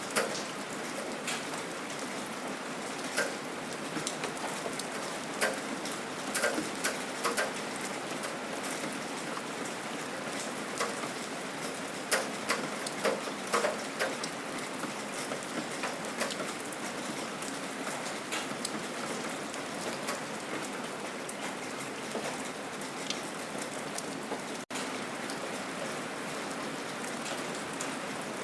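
Gentle rain falling steadily, a continuous patter with individual drops ticking sharply close by now and then.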